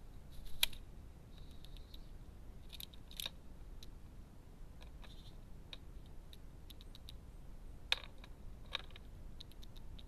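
Birds at a garden feeder: scattered sharp clicks and taps, the loudest about a second in and twice near the end, with short bursts of high, rapid chirping between them.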